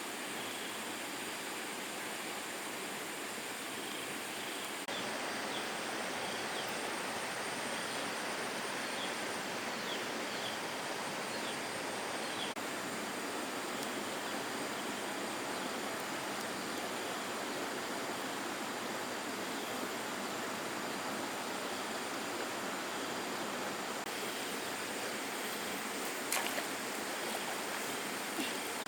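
Steady rush of flowing water. It steps up slightly about five seconds in, and a sharp click comes near the end.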